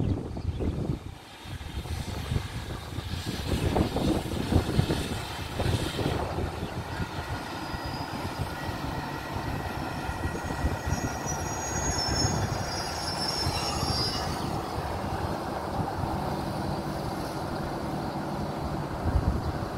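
An Alsthom diesel-electric locomotive and its passenger coaches run into a station and slow to a stop, with the engine running and the wheels rumbling on the track. A high squeal comes from about ten to fourteen seconds in as the train brakes.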